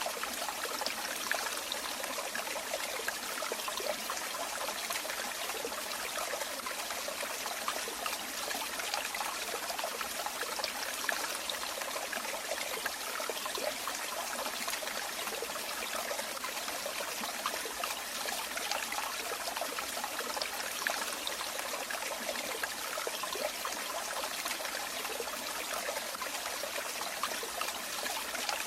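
Running water trickling and splashing steadily, a continuous bubbling flow like a small stream or falling water.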